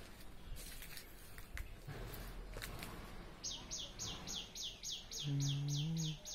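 A bird calling in a rapid series of high, downward-sliding chirps, about four a second, starting about halfway through. Near the end a low, drawn-out human voice comes in briefly over the chirps and is the loudest sound. Rustling and light handling clicks come before the chirps.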